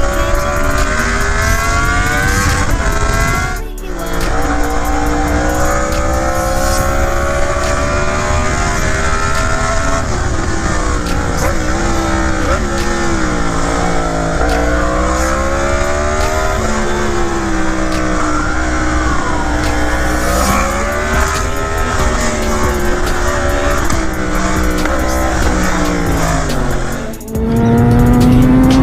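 A high-revving vehicle engine running hard, its pitch climbing and falling again and again with the throttle, with two short breaks, about 4 seconds in and near the end.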